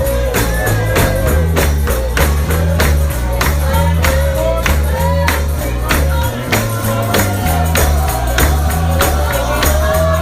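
Live gospel music: a tambourine struck on a steady beat, about three times a second, over a stepping bass line, with voices singing the melody.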